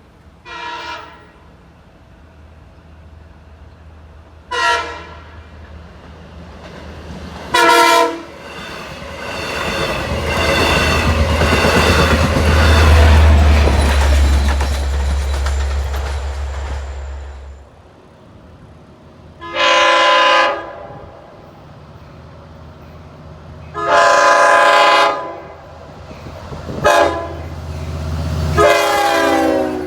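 Long Island Rail Road diesel push-pull train passing. Its horn gives three short blasts in the first eight seconds, then the engine and wheels build to their loudest about ten to seventeen seconds in. From about nineteen seconds the horn sounds long, long, short, long, the standard grade-crossing signal, as the train moves on.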